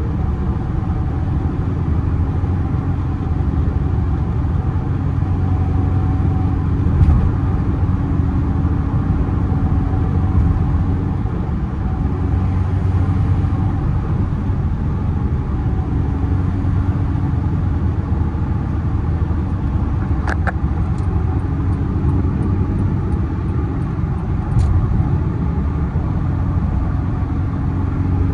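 1996 Toyota Tacoma's engine and road noise running steadily while the truck is driven. A short run of faint, evenly spaced ticks comes about three quarters of the way through.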